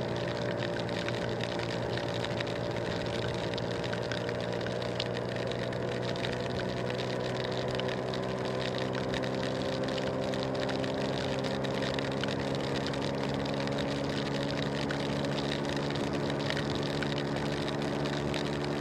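Motor scooter engine running steadily while riding, its pitch drifting a little as speed changes, over a constant hiss of wind and rain on the phone's microphone.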